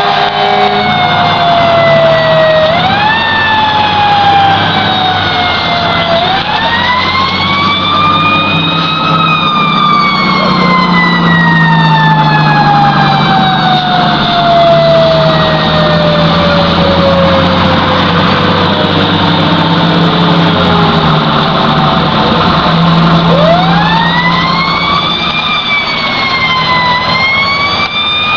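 Fire engine siren on a responding fire truck. It winds up quickly, then falls slowly in long descending wails, several times over, with the truck's engine running underneath.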